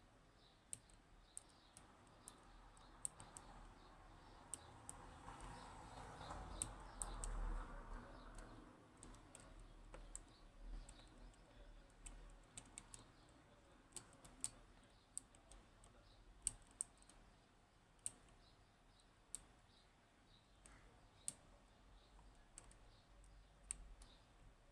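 Faint, irregular light clicks of a lock pick working the pins of a Yanai R 2200M high pin count lock, with soft handling noise swelling and fading around the middle.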